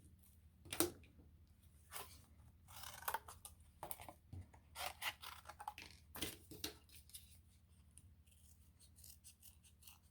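Irregular scratchy strokes and rustling of a pencil tracing around a cardboard roll on paper, with the paper being handled, and a quick run of light scratches near the end.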